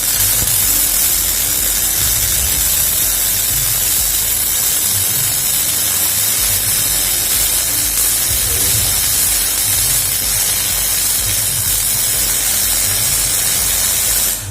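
CO2-shielded MIG (GMAW) welding arc running one continuous bead, a steady loud hiss.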